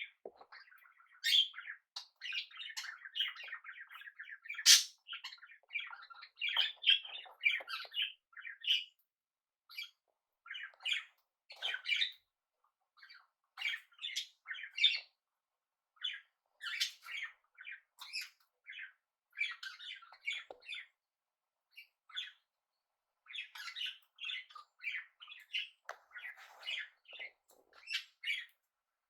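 Small pet parrots chirping and chattering in quick runs of short notes, broken by pauses, with a couple of sharper, louder squawks in the first five seconds.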